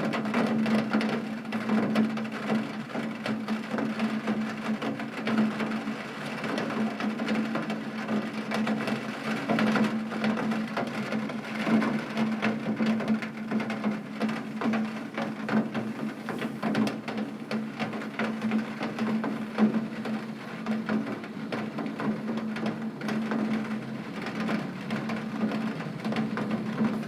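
Heavy rain on a window pane: a dense, irregular patter of drops tapping the glass over a steady wash of rain, with a steady low hum underneath.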